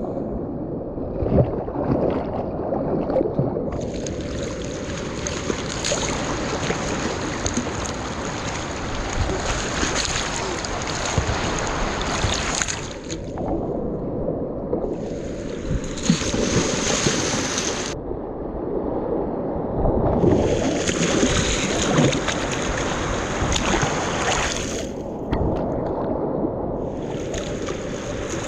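River rapid rushing steadily, with several long spells of louder, splashier water noise that start and stop sharply.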